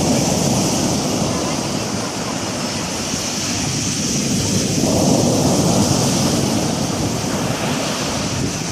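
Stormy sea: waves rushing and breaking continuously, with wind blowing over the microphone. A wave surges up about five seconds in.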